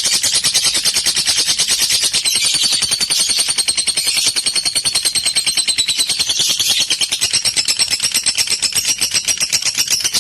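Lovebird chattering in a long unbroken run of rapid, shrill chirps, many to the second, the drawn-out chatter that lovebird keepers play to set other lovebirds singing.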